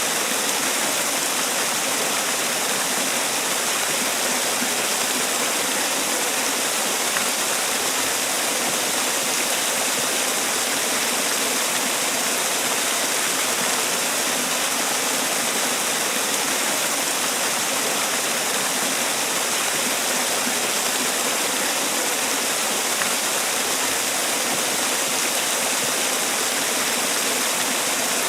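Man-made waterfall: water falling and splashing in a steady, even rush.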